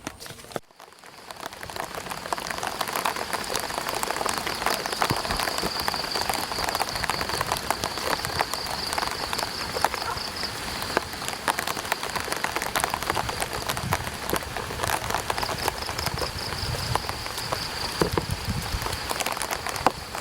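Light rain falling on an umbrella: many fine, close drop taps over a steady hiss. The taps cut out briefly just under a second in.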